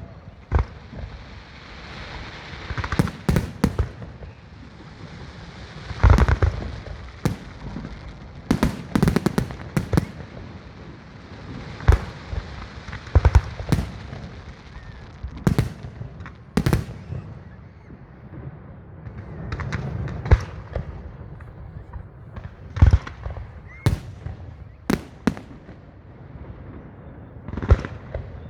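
Fireworks display: aerial shells bursting in irregular sharp bangs, often several in quick succession, over a steady hiss between them.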